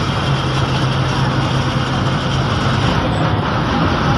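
Steady engine hum and road noise inside a moving KSRTC bus.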